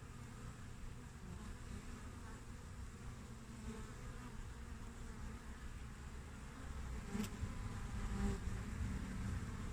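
Honeybees (Apis mellifera) buzzing at the hive entrance, a steady hum that grows louder about seven seconds in. A single sharp click comes at about the same moment.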